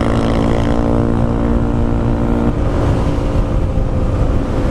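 Honda Grom's 125 cc single-cylinder engine with a Yoshimura exhaust, running steadily at cruising speed under heavy wind rumble on a helmet-mounted microphone. The steady engine note shifts about halfway through.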